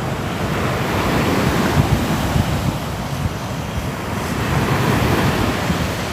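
Sea waves washing in, a steady surf rush that swells gently and eases, with wind on the microphone.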